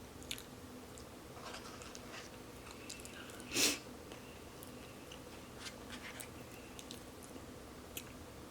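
Close-miked, faint mouth sounds of someone chewing a bite of Burger King's Hershey's chocolate crème pie, with small wet clicks. About three and a half seconds in there is a brief louder rush of noise.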